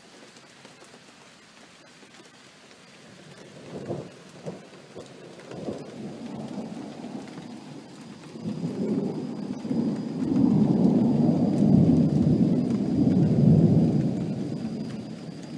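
Thunder: a few sharp cracks about four seconds in, then a long rolling rumble that builds, is loudest in the last third and fades near the end, over steady rain.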